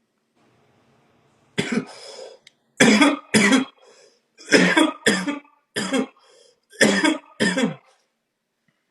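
A person coughing in a fit: about eight loud, short coughs, mostly in pairs, starting about a second and a half in.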